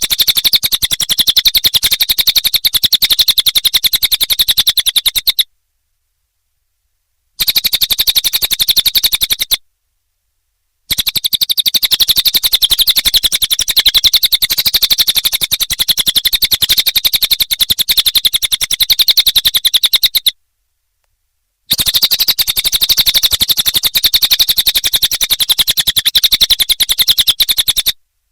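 Cililin bird song: a very fast, high, rattling stream of chirps. It comes in four long bouts cut apart by short, completely silent gaps.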